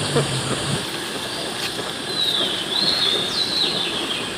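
A few high whistling bird calls, some gliding down in pitch, over a steady rushing background noise.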